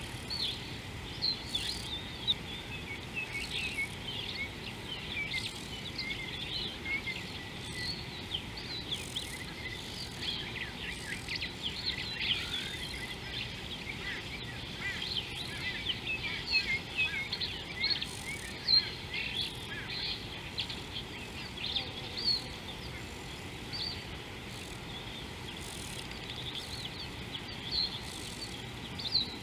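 Many small birds chirping and twittering in quick, overlapping calls, over a steady low outdoor hiss.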